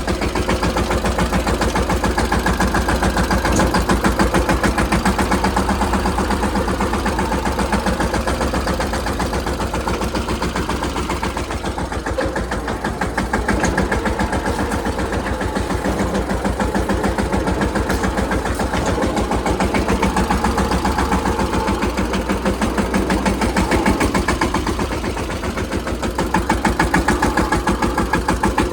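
Mahindra Yuvraj 215 tractor's single-cylinder diesel engine running steadily with a rapid, even beat, its loudness swelling and easing a little now and then.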